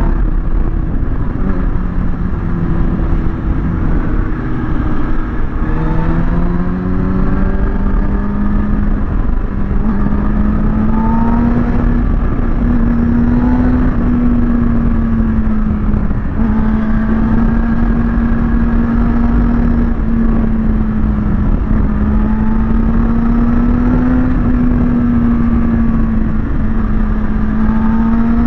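Kawasaki ZX-6R's inline-four engine running under way at fairly steady revs, its pitch rising and dipping a little several times, over a constant rush of wind noise.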